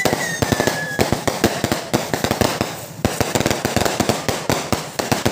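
Fireworks going off in a dense, irregular string of rapid crackling bangs, with a thin whistle falling in pitch during the first second.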